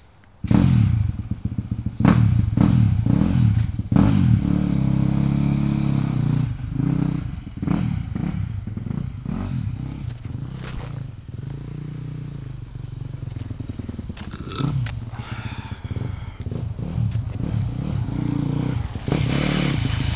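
Motorcycle engine starting up about half a second in, then running and revving up and down, with short sharp throttle blips through to the end.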